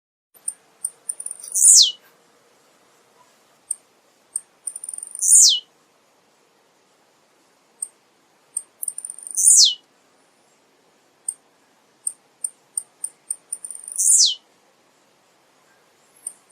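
Male blue-black grassquit (tiziu) singing: four songs about four seconds apart, each a few short high ticks running into a loud buzzy note that falls steeply in pitch.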